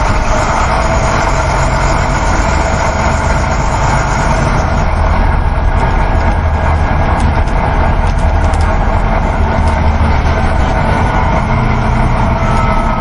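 Steady engine drone and road rumble inside a moving coach bus.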